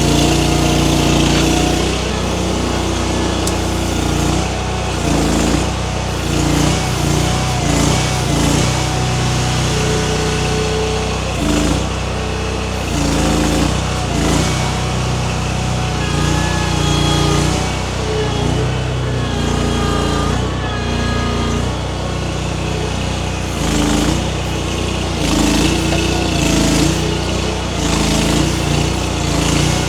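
Baumalight mini skid steer's small engine running steadily under working load, its level and pitch shifting every second or two as the grapple and hydraulics are worked to pull a small tree.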